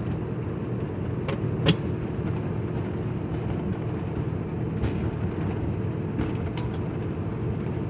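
Steady drone of a moving truck heard inside the cab, with a few sharp clicks and knocks, the loudest a little under two seconds in.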